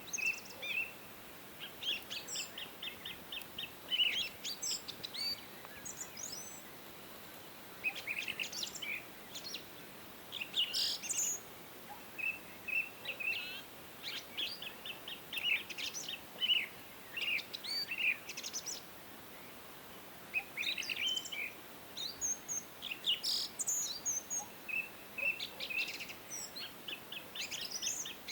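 Several songbirds chirping and singing, with short trills and repeated high notes overlapping throughout, over a faint steady background hiss.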